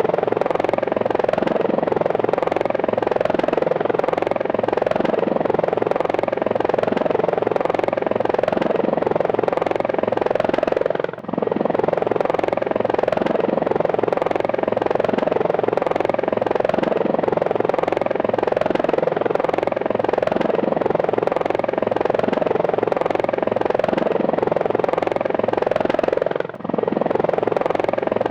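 Helicopter running steadily with a fast, even beat from its rotor blades; the sound dips briefly twice, about eleven seconds in and near the end.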